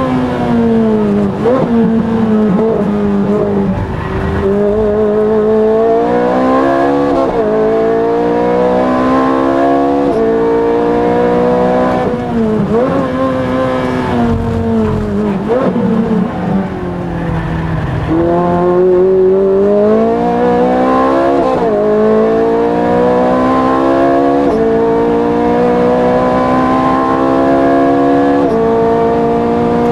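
Ferrari's engine heard from inside the cockpit while lapping a race track: it revs up through the gears, its pitch dropping suddenly at each upshift. About two-thirds of the way through it falls away as the car slows for a corner, then climbs again.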